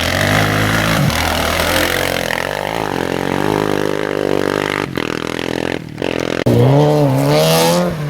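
Competition vehicle engines on a gravel rally stage, revving and accelerating with the pitch rising and falling. The sound cuts out briefly twice near the middle. About six and a half seconds in, a louder engine comes in, accelerating with a rising pitch.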